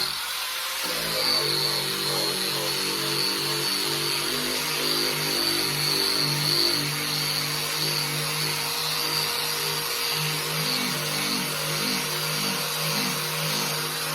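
Eastwood SCT variable-speed drum surface-conditioning tool running with a soft sanding wheel against the paint of a steel cab roof: a steady whine over a scuffing hiss. The low part of the sound briefly drops out about half a second in. This wheel barely cuts the paint and leaves a smooth, pre-paint finish.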